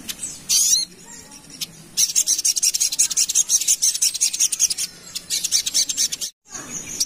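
Little spiderhunter (sogok ontong) singing a fast, dense string of high, thin chattering notes. A short burst comes about half a second in, then a long rapid run from about two seconds in that breaks off briefly near the end.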